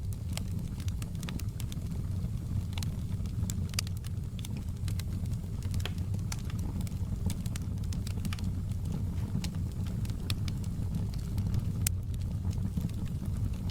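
Logs burning in a fireplace: a steady low rumble of flames with frequent sharp, irregular crackles and pops.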